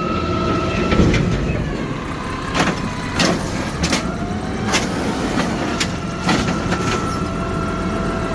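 CNG garbage truck running steadily, with a high whine that stops for a few seconds in the middle and comes back, and several sharp metallic clanks and knocks along the way.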